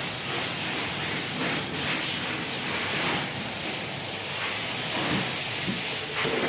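High-pressure washer spraying water, a steady hiss with slight surges as the spray moves.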